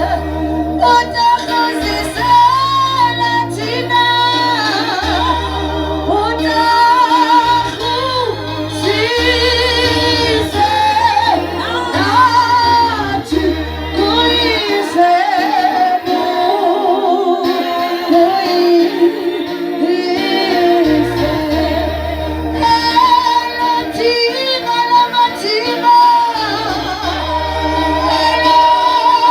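Gospel praise-and-worship singing led by women's voices over a keyboard, with held bass notes that change every second or two.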